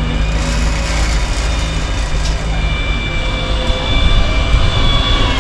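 Electric trial truck's drive motor whining under load, a thin high whine held steady and then falling in pitch near the end, over a heavy low rumble.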